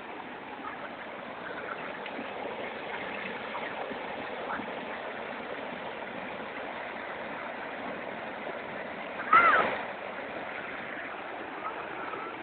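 Steady rush of water at a waterfall. About nine seconds in, a brief high-pitched cry that bends in pitch rises above it.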